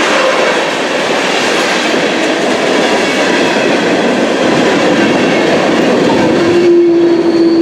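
Freight train of ethanol tank cars rolling past close by, the wheels clattering steadily on the rails. A steady tone joins near the end.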